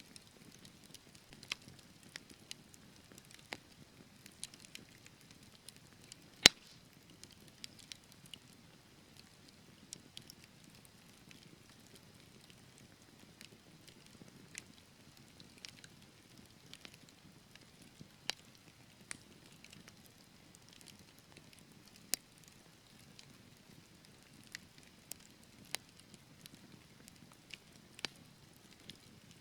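Wood fire burning in a fireplace: scattered, irregular sharp crackles and pops over a soft low hiss, the loudest pop about six and a half seconds in.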